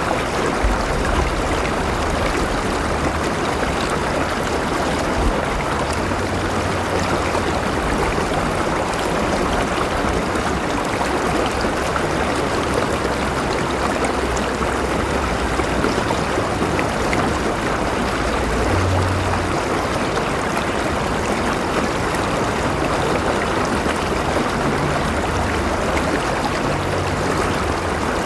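River water flowing steadily over stones, an even rushing noise with a low rumble beneath it.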